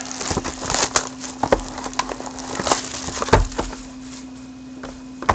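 Trading-card packaging being handled and opened: crinkling and rustling with scattered clicks and taps, busiest in the first half, over a steady electrical hum.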